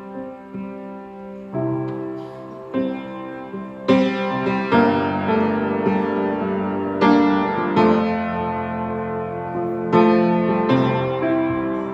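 Piano playing a slow song introduction: chords struck every second or so and left to ring out.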